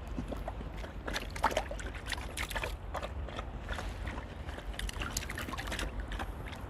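Irregular splashing and sloshing in shallow seawater, many short splashes in quick succession, over a steady low rumble.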